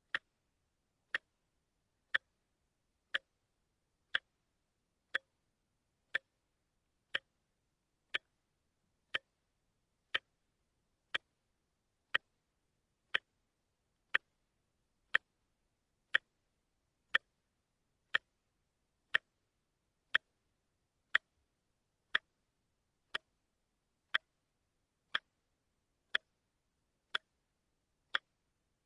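Wristwatch ticking steadily, one crisp tick about every second with silence between ticks.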